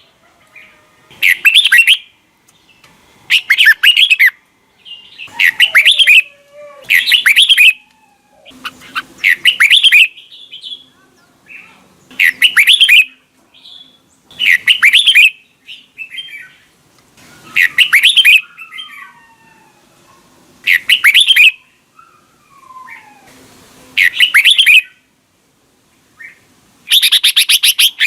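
Red-whiskered bulbul singing loud, short, warbled phrases, about ten of them, each a second or so long and repeated every two to three seconds. Fainter gliding calls sound between the phrases.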